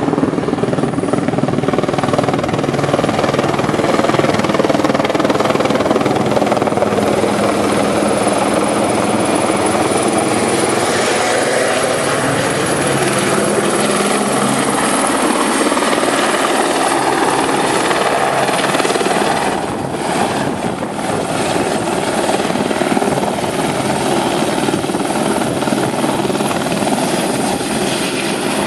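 Rotorcraft in flight: loud, steady rotor and engine noise with slow glides in pitch as it moves about, briefly quieter about two-thirds of the way through.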